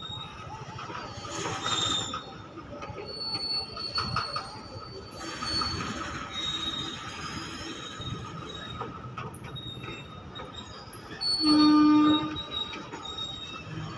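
Indian Railways goods train of covered boxcar wagons rolling past, its steel wheels squealing thinly over a steady rumble with a few knocks. Near the end a short horn blast, under a second long, is the loudest sound.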